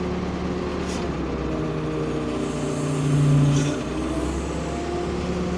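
Ford P-42 excavator's engine running steadily as the machine works, swelling louder and deeper for about a second near the middle under load.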